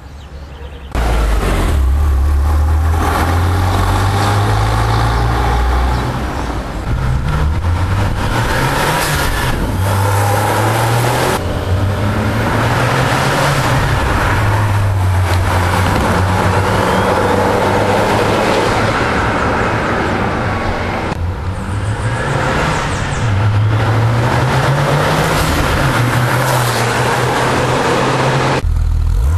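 Porsche 993 Turbo's twin-turbo 3.6-litre flat-six with an aftermarket exhaust, tuned to about 650 hp, accelerating and revving through several runs, its note rising and falling. The sound starts abruptly about a second in and changes abruptly a few times where the recording cuts.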